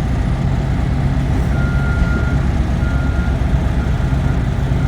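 Semi-truck's diesel engine running with a steady low drone as the truck backs up, while a high reversing-alarm tone beeps on and off from about a second and a half in.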